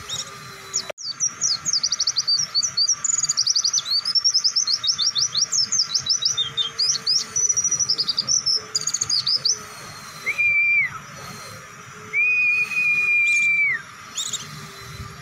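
White-eye (pleci) singing a long, fast run of high chirping notes packed close together, the rapid continuous 'bren' style of song. Near the end of the run come two long level whistled notes, the second one longer.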